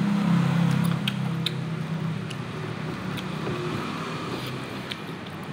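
A person chewing a mouthful of rice, with scattered short wet clicks and smacks from the mouth, over a steady low hum that fades a little after the first two seconds.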